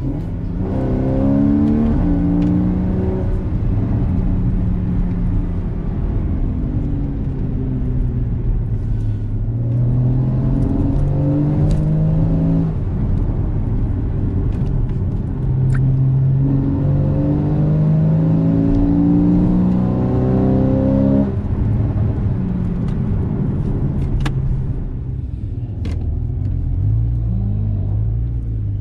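Porsche Cayman GTS engine accelerating hard. The revs climb in long pulls and drop sharply at each upshift, three times, with the longest pull near the middle. Near the end the engine eases off to a lower, steadier note with a couple of sharp cracks.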